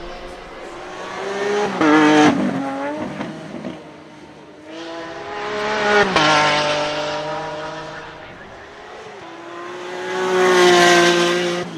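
Lamborghini Centenario Roadster's naturally aspirated V12 revving in three surges, each rising in pitch and then dropping away; the last surge, near the end, is held longest.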